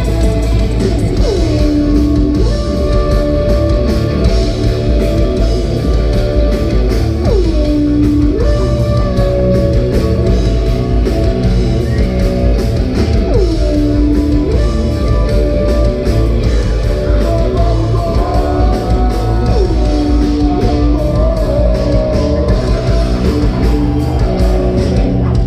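Live rock band playing loudly: heavy guitars over bass and drums, with a sliding melodic line that swoops into a held note about every six seconds.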